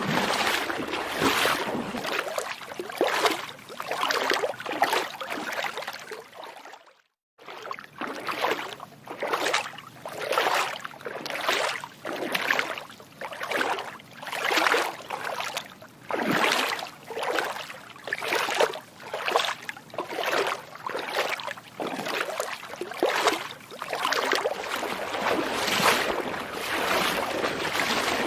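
Footsteps wading through shallow water: rhythmic splashing swishes about once a second, with a brief cut to silence about seven seconds in.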